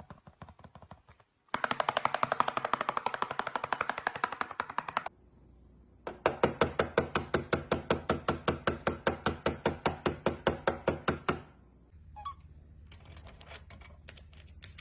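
Rapid, evenly spaced tapping or clicking, several strokes a second, in two long runs with a short pause between, then fainter clicking near the end.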